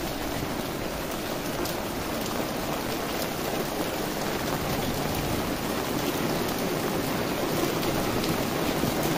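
Rain falling steadily, an even hiss with scattered individual drops ticking through it.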